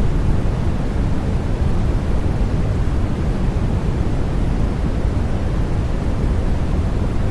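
Steady white noise for lulling a baby to sleep: an even, deep hiss weighted toward the low end, unchanging throughout.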